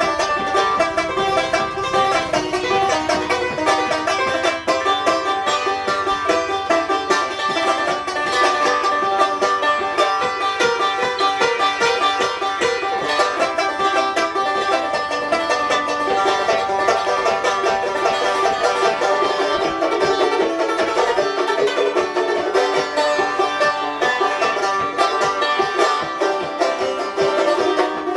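Banjo picked solo in a fast, steady bluegrass style, a dense run of bright plucked notes.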